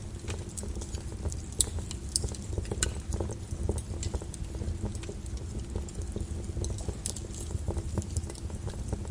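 Lava flow crackling and popping in quick, irregular clicks over a steady low rumble.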